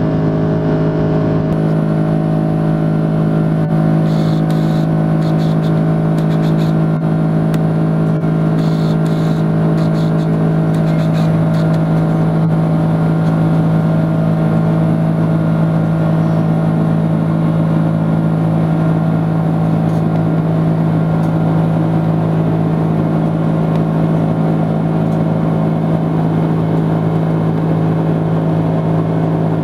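Steady drone of an Airbus A330-300 airliner's jet engines and airflow, heard inside the passenger cabin, with a constant low hum and an even rush above it. A few faint ticks come through in the first third.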